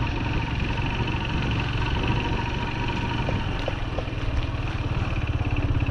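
Farm motorbike engine running steadily at low speed, with an even low throb.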